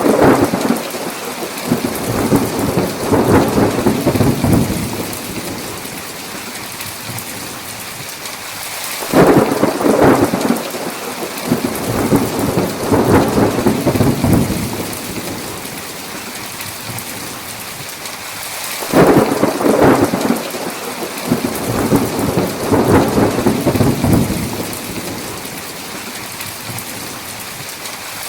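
Steady heavy rain hissing, with a long roll of thunder about every ten seconds: three peals, each swelling and rumbling on for about five seconds.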